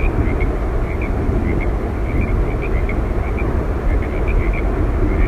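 Steady roar of Yosemite Falls, falling water heard as an unbroken rushing noise, with many faint short high chirps scattered over it.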